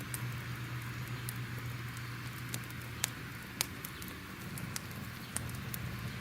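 Crackling fire: a steady hiss with scattered sharp pops, the two loudest about three and three and a half seconds in, over a low steady rumble.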